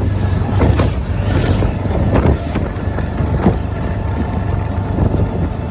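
Running engine and road noise of a moving CNG auto rickshaw: a steady low drone with scattered short knocks and rattles.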